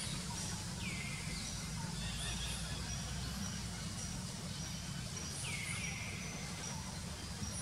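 Outdoor forest ambience: a steady low rumble under short, repeated high chirping notes, with twice a call that slides down in pitch and then holds for a moment, about a second in and again near the end. The calls fit wild birds; the monkeys do not call.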